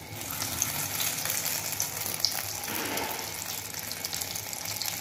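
Shami kebabs shallow-frying in hot oil: a steady sizzle with scattered small pops and crackles.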